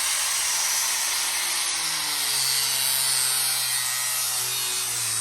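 Angle grinder with a cutting disc slicing through a billet aluminium truck rim: a steady, loud hissing grind over the motor's hum, whose pitch drops slightly about two seconds in.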